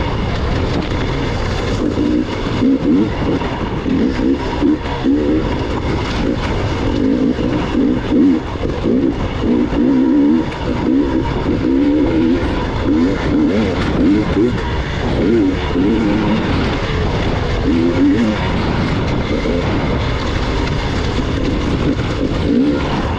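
Gas Gas EX 300 two-stroke enduro motorcycle engine being ridden, its revs rising and falling constantly as the throttle is worked over rough off-road terrain.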